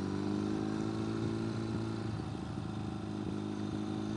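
Ural sidecar motorcycle's air-cooled boxer-twin engine running at a steady, moderate pace while under way.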